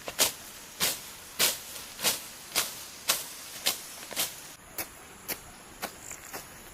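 Regular short, sharp strokes, a little under two a second, each a brief crisp swish-like crack. They are louder in the first half and softer from a little past the middle.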